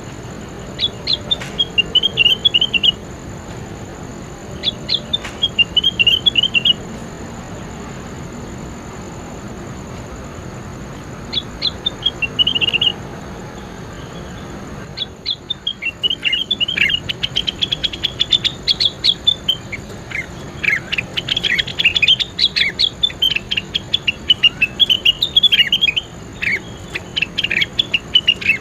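A songbird singing in quick chattering phrases of high chirps and trills: three short phrases with pauses between, then a near-continuous run of rapid, varied notes from about halfway through.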